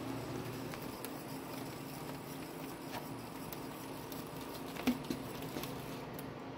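Lejay 3-axis CNC milling machine powered up, giving a steady electrical hum with scattered light ticks and a couple of sharper clicks about five seconds in.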